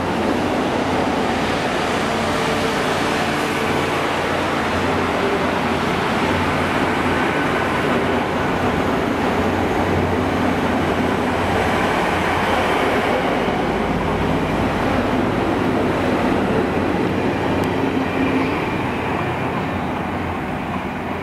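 Great Western Railway Class 800 Intercity Express Train pulling out past the platform: a steady, loud rumble of the train running on the rails, with a low hum underneath. It holds level throughout.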